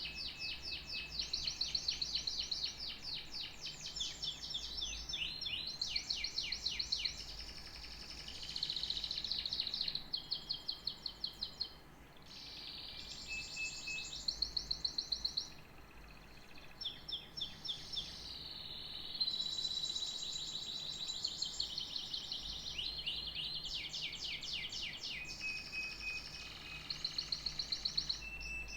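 Domestic canary singing a long, continuous song of fast trills and rapidly repeated notes, switching from one roll to the next every second or two, with a faint low hum underneath.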